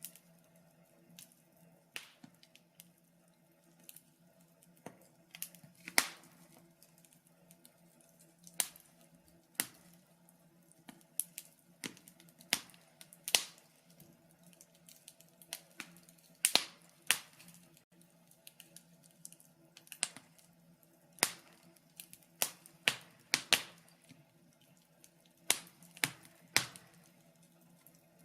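Wood fire crackling in a fireplace: irregular sharp pops and snaps, some coming in quick clusters, over a faint steady hum.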